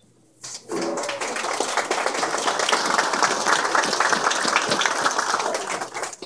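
Crowd applauding a prize winner: many hands clapping together for about five seconds, starting about half a second in and dying away near the end.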